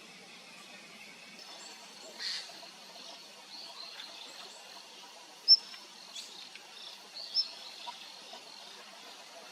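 Wild birds giving short, high chirps over faint outdoor background noise, with two sharper, louder chirps in the second half.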